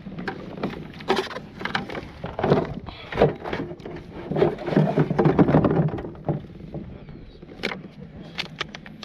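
Irregular knocks, clicks and clatter of crabbing gear being handled on a plastic kayak, busiest over the first six seconds, with a few sharp clicks near the end.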